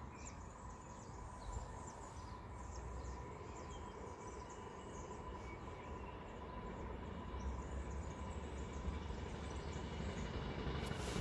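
Faint low rumble of a distant train approaching along the track, growing slowly louder, with birds chirping over it.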